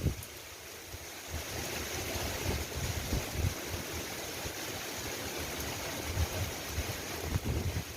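Steady rain falling, an even hiss, with irregular low rumbles of wind buffeting the microphone.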